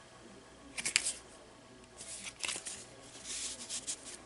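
Paper rustling and sliding as a tag is handled in a paper pocket of a handmade junk journal, in a few short brushes: about a second in, around two and a half seconds, and again near three and a half.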